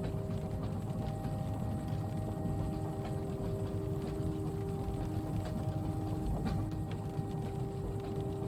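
Inside a train carriage: the steady low rumble of the train running, with a constant hum of a few steady tones over it and light scattered ticks, as of rain on the window.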